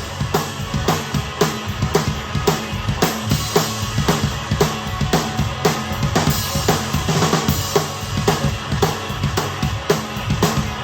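A rock drum kit played hard over a rock backing track, with kick drum, snare and cymbal hits several times a second. The kit is a DW drum set with a Sonor SQ2 beech snare and Istanbul Agop and Paiste cymbals.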